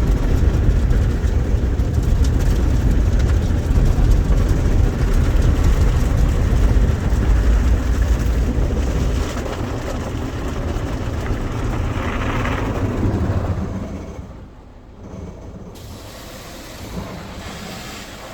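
Ryko SoftGloss XS rollover car wash machinery working over the car during its wash cycle, heard from inside the car: a loud, steady low rumble that eases after about nine seconds and falls away about fourteen seconds in.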